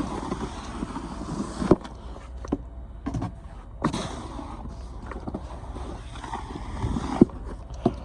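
Snow shovel scraping heavy wet snow along the ground, with a few sharp knocks of the blade.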